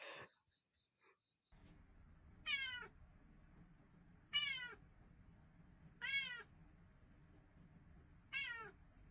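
Cat meowing four times, about two seconds apart, each meow falling in pitch.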